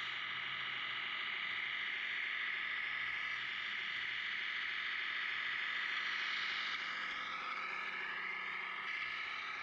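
Simulated diesel truck engine from a Tamiya MFC-01 sound unit playing through the RC truck's small speaker, running steadily, its pitch wavering and rising and falling in the last few seconds as the truck moves.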